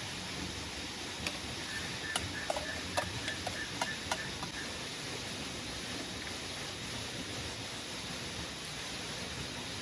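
Steady hiss of rain falling, with a few sharp clicks and ticks in the first half.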